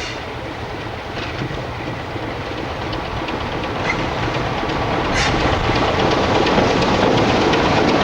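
A train running on jointed track, its wheels clicking over the rail joints, getting louder as it comes closer.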